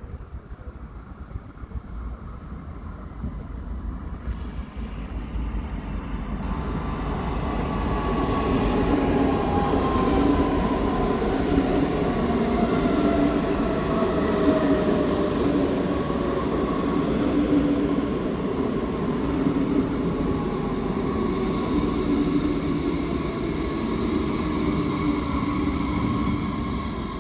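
An electric train runs into the station. The rumble of the wheels builds over the first several seconds, and a motor whine slowly falls in pitch as the train comes through.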